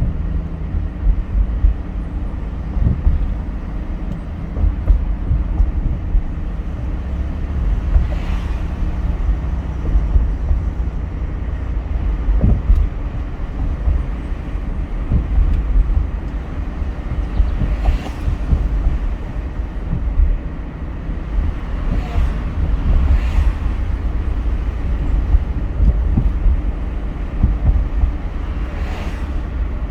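A car driving, with a steady low road and engine rumble. A few brief whooshes come through, about five, spread across the stretch.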